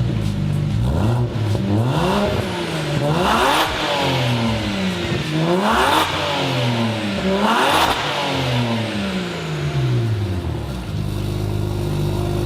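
BMW engine exhaling through a Spec-D titanium single-exit muffler, revved several times from idle with the pitch rising and falling on each blip, then settling back to a steady idle near the end.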